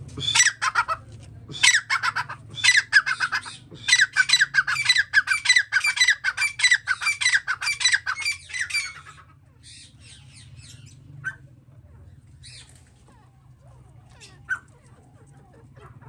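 Caged birds squawking in rapid, harsh repeated calls, several a second, for about the first nine seconds, then only a few scattered calls.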